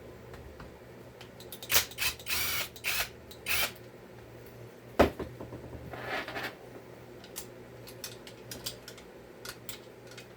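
Chainsaw parts being handled on a workbench: a run of sharp clicks and short rattles, one louder knock about five seconds in, then a brief rustle and a few light ticks.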